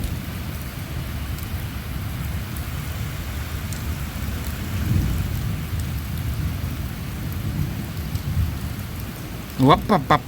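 Thunderstorm: steady rain with a low, continuous rumble of thunder that swells briefly about five seconds in.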